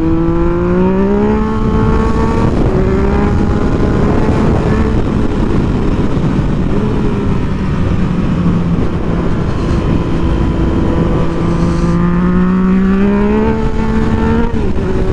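Motorcycle engine under way, its note rising as it accelerates at the start and again near the end, then dropping off, under heavy wind rush.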